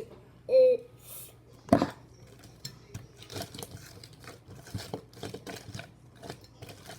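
Small objects being handled on a table: a sharp knock about two seconds in, then scattered light clicks and rustling.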